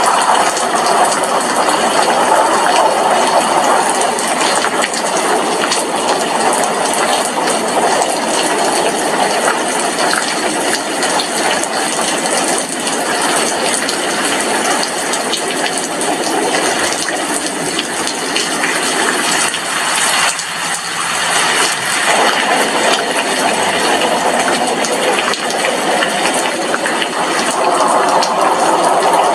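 Heavy rain falling on a glass window pane: a steady, dense hiss made of countless small drop taps, easing slightly for a moment about two-thirds of the way through.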